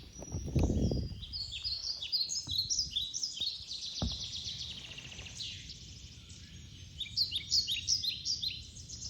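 Small songbirds chirping, many short high chirps that slide downward and overlap one another. A brief low rumble comes in the first second, and a single knock about four seconds in.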